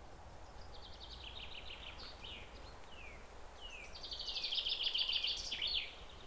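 Wild birds calling: a run of short down-slurred notes, then a louder, fast trill about four seconds in, over a faint low rumble.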